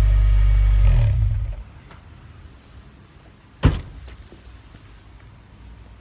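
Honda Airwave's 1.5-litre four-cylinder idling steadily through a Kakimoto GT box 06&S aftermarket muffler, then switched off about a second in and dying away. A little past halfway there is one sharp knock, followed by a light jingle of keys.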